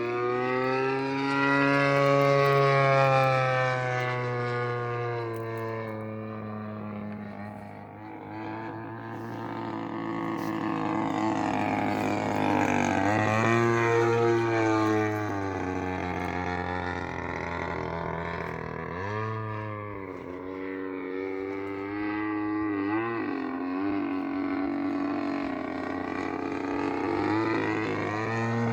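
DLE 55cc single-cylinder two-stroke gas engine of a large RC airplane running at high revs, its buzzing pitch rising and falling several times.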